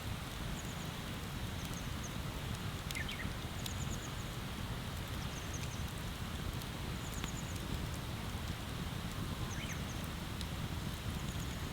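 Wood bonfire crackling, with scattered sharp pops over a steady rushing background. Short high chirps come in little runs about once a second throughout.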